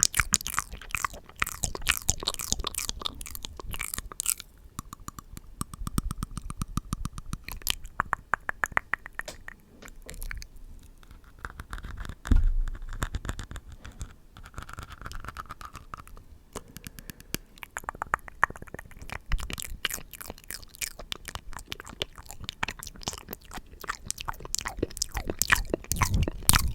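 Close-miked ASMR mouth sounds: a dense, rapid run of wet clicks and smacks, with a single low thump about halfway through.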